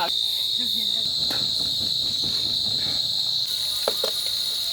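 Steady high-pitched chirring of crickets, with a couple of light clicks about four seconds in.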